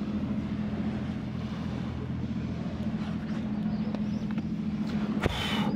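Steady drone of a distant engine that drops in pitch near the end, with one short sharp clink about five seconds in.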